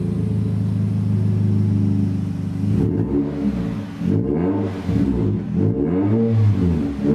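Nissan Cube (Z12) exhaust through a one-off muffler with the stock centre section and a straight-through rear piece, running at a steady engine speed and then revved in several throttle blips from about three seconds in, the pitch rising and falling each time.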